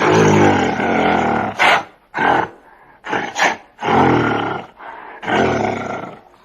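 An animal calling: a series of loud, low-pitched calls, some about a second long with shorter ones between them.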